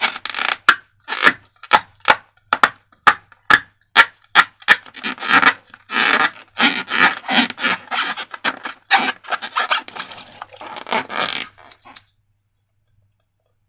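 Slime being worked by hand: a run of irregular scraping, crackling and sticky squelching sounds with a few sharp clicks, cutting off abruptly near the end.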